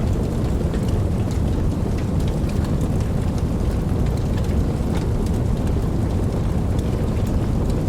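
Steady rain with a deep, continuous rumble underneath and scattered individual drops ticking on top.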